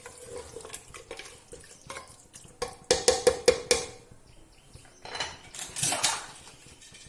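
A spoon clinking and scraping against the cooking pan as chicken is stirred with yogurt and ground masala. There are scattered clinks, a quick run of ringing knocks about three seconds in, and a longer scrape around five to six seconds in.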